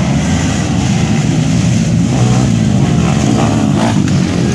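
Motocross motorcycle engines running and revving, the pitch wavering up and down.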